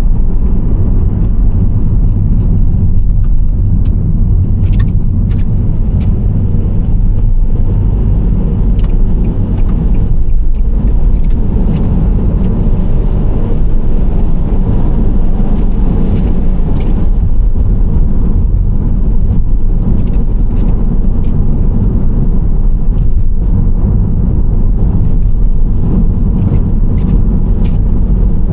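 Nissan Serena C25 minivan driving at steady speed: a continuous low engine and road rumble, with scattered faint clicks.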